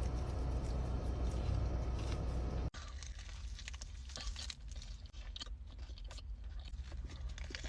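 A steady low rumbling noise. About two and a half seconds in it cuts off suddenly, and close-miked crunchy biting and chewing of crisp food follows: many sharp crackles.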